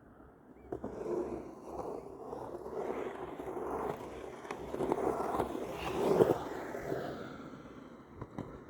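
Skateboard rolling and scraping, the noise swelling to its loudest about six seconds in and easing off near the end, with a few sharp clicks.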